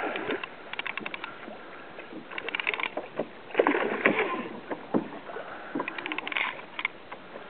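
Water splashing and knocking against a fishing kayak in four or five short bursts, as a hooked mahi-mahi is being brought to the boat.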